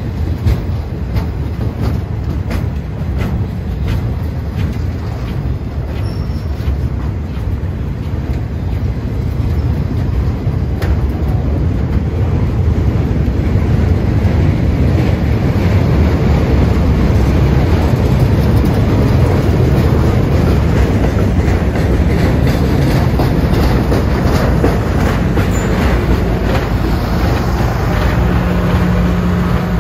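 Flatcars loaded with continuous welded rail rolling past close by: a steady rumble of steel wheels on the track, with scattered clacks over rail joints. Near the end a steady engine hum joins in as the rail-unloading car with its engine unit passes.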